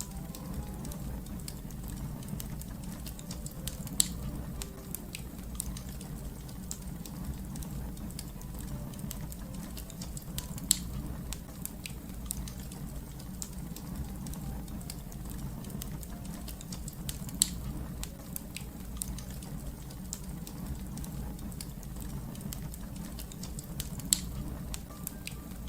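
Wood fire crackling: a steady low rumble under constant small crackles, with four louder pops spread evenly through.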